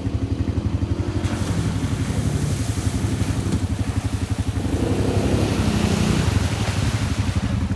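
ATV engine running with a steady, fast pulsing beat, swelling a little louder about five to six seconds in.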